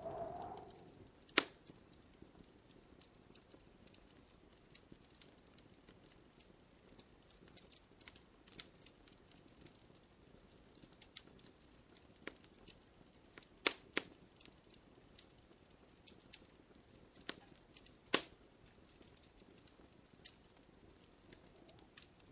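Wood fire crackling in a fireplace: scattered small snaps and pops over a faint hiss, with a few louder pops, the loudest about a second and a half in.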